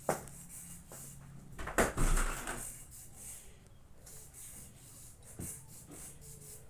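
A sharp knock, then a louder thump with a brief rustle about two seconds in, and a small knock later on.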